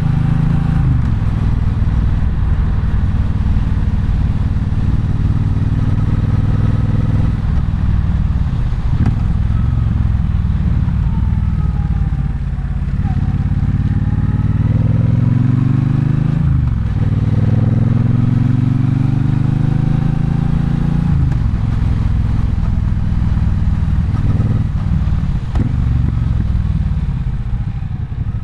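Triumph Bonneville Bobber's 1200 cc parallel-twin engine under way on the road, pulling up through the gears: the engine note climbs and then drops sharply at each upshift, twice in the middle stretch, with steady cruising before and after.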